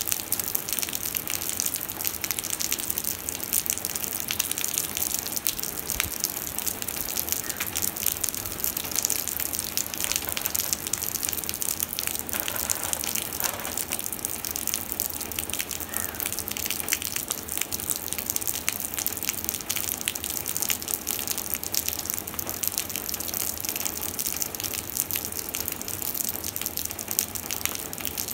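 Heavy rain falling onto wet concrete and a shallow puddle: a steady, dense hiss of countless drops splashing into standing water.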